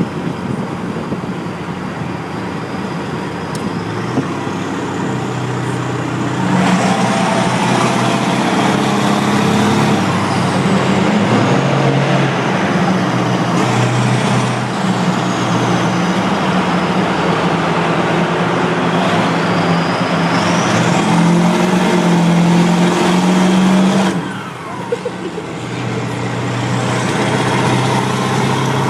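Straight-piped Ford 7.3 Powerstroke turbo-diesel V8 running loud in a tunnel, with a high whine that rises and falls several times. The exhaust gets louder about six seconds in, dips briefly near the end, then builds again.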